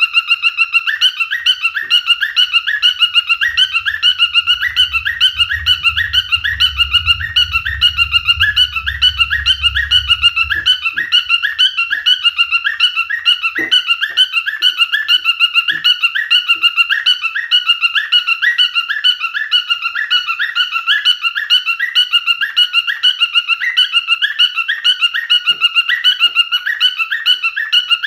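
Pied cockatiel singing: a shrill whistled warble that repeats the same short phrase over and over in quick succession, without a break.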